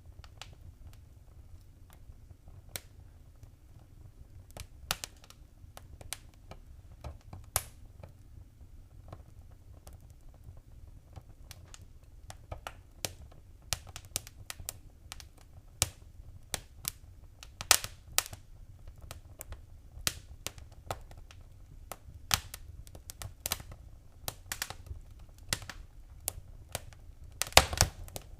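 Wood fire crackling in a fireplace: irregular sharp pops and snaps over a low rumble. The pops come more often after about ten seconds, with a loud cluster of them near the end.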